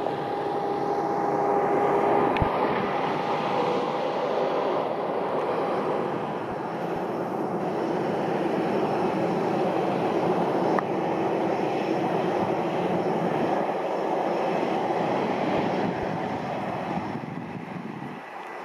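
Aircraft engines running loudly as a plane passes the runway side: a steady rush with a thin whine that fades out about six seconds in. The sound dies away near the end.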